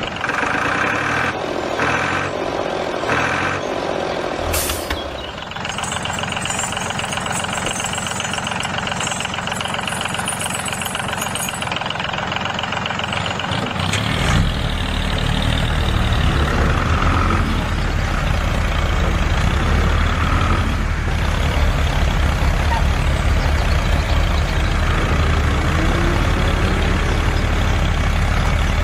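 Heavy truck engine running, with a brief hiss about five seconds in; from about fourteen seconds on the engine's low note grows louder and holds steady.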